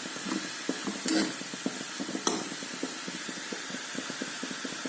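Chicken pieces shallow-frying in oil in a pan, a steady sizzle, with a couple of knocks from the stirring spoon about one and two seconds in. The chicken is nearly done frying.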